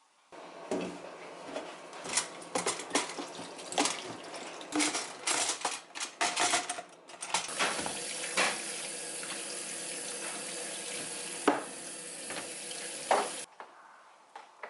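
Dishes and cutlery clattering in a kitchen sink, then a tap running steadily for about six seconds with a couple of sharp clacks, and shut off suddenly near the end.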